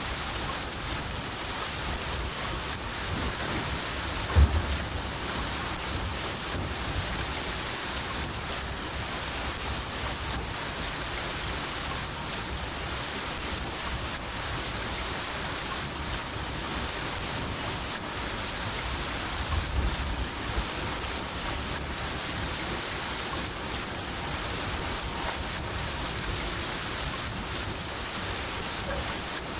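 A cricket chirping steadily at about three high chirps a second, breaking off briefly twice, over the steady hiss of rain. Low thunder rumbles briefly twice.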